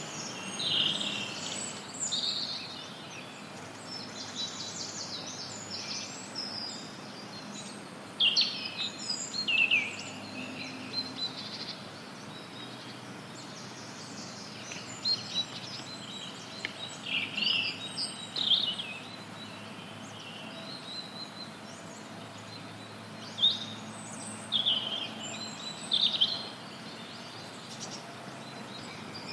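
Forest birds chirping and singing in short, scattered phrases over a steady hiss of white noise.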